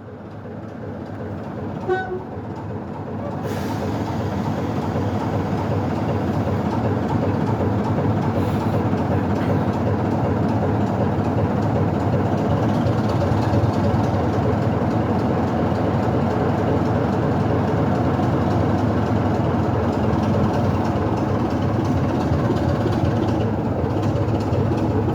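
Heritage train climbing the gradient: a steady rumble of engine and running gear that builds over the first few seconds and then holds. A brief high toot of a horn or whistle sounds about two seconds in.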